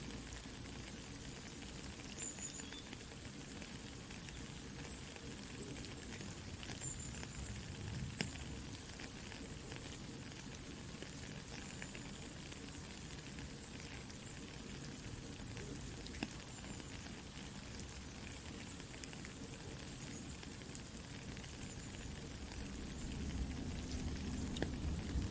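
Soft steady rain mixed with a crackling campfire, its small sharp pops scattered throughout. It grows louder near the end, with more low rumble.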